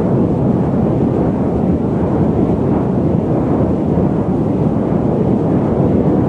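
Steady, deep noise of an airliner cabin in cruise flight, even throughout, with most of its weight low and little hiss.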